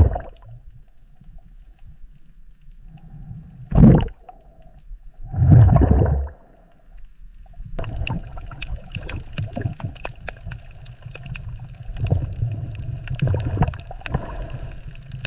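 Water gurgling and bubbling: two short, loud low surges in the first half, then a steady low rumble crackling with many small clicks from about halfway on.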